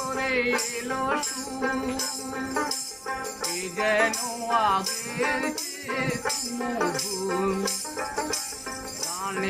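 A local street musician singing a wavering melody over a steady held drone, with rhythmic jingling percussion keeping the beat.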